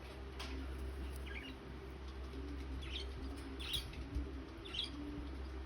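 Sambhal-breed pigeons cooing over and over in low phrases, with a few short high squeaks between them.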